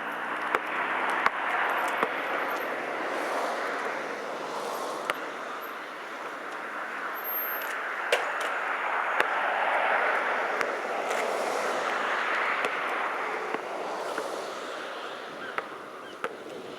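Wind gusting over the microphone in slow swelling waves, with a few sharp knocks scattered through it.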